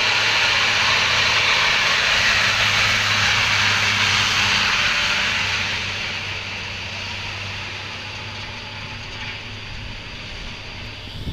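Overloaded dump truck on a steep descent: a loud, harsh brake hiss over the steady drone of its engine. The hiss dies away over the second half.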